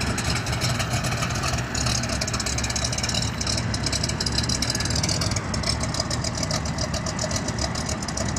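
1969 Chevrolet Corvette's 427 cubic inch big-block V8 running steadily, with a fast fine ticking over the low engine note.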